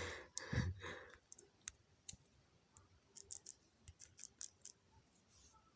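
A short breathy exhale-like voice sound at the start, then scattered light clicks, a dozen or so spread irregularly over about three and a half seconds.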